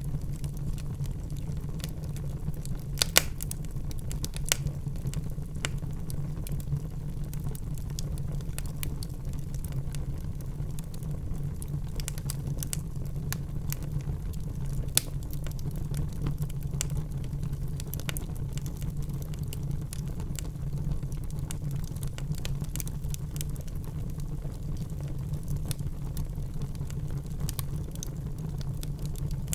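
Wood fire crackling in a fireplace: a steady low rumble of flames with scattered sharp pops and snaps, the loudest about three seconds in and again around fifteen seconds in.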